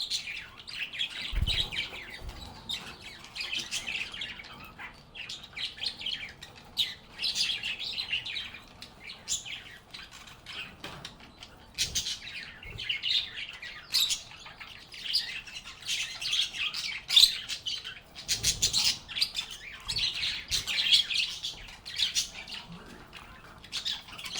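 A flock of lovebirds chattering with a constant stream of rapid, high chirps and squeaks, with a couple of brief low thumps.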